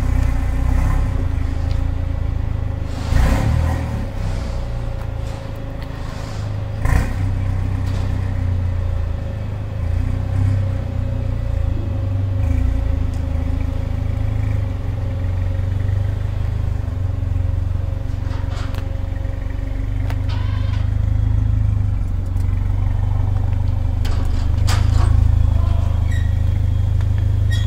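Mercedes-AMG A45's turbocharged 2.0-litre four-cylinder, decatted and fitted with a performance exhaust, running at a steady low idle with a deep rumble. A couple of short knocks sound about three and seven seconds in.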